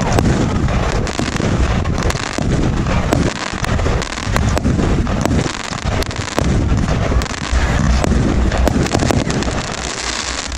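Multi-shot consumer firework cake firing: a dense, continuous string of sharp bangs and crackling explosions overlapping one another.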